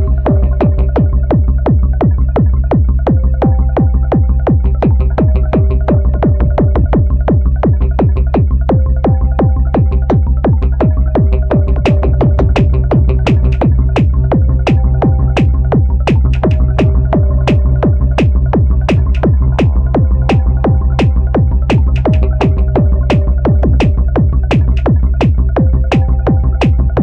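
Electronic music played live on a Korg Electribe 2 groovebox: a steady drum-machine beat over a deep sustained bass, with a repeating synth figure of held notes.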